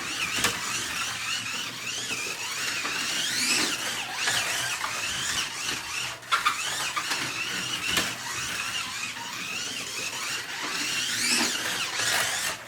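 Slot car's small electric motor and gears whining as it laps a home track, the pitch rising and falling as it speeds up on the straights and slows for the tight corners, with two long rising sweeps about a third of the way in and near the end. A few sharp clicks break in along the way.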